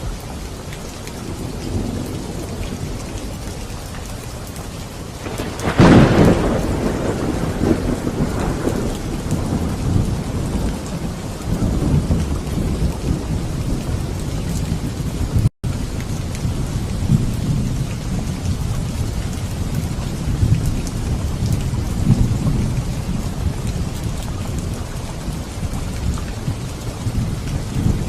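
Steady rain with thunder: a sharp thunderclap about six seconds in, then low thunder rumbling on under the rain. The sound cuts out for an instant about halfway through.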